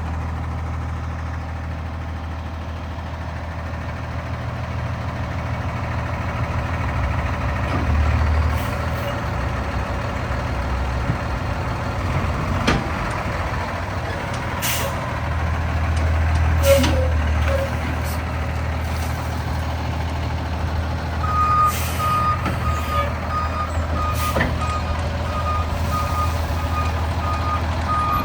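PACCAR PX9 diesel engine of a Peterbilt 348 truck running, its note swelling twice, with several short sharp air-brake hisses. About three-quarters of the way in a reversing beeper starts beeping steadily.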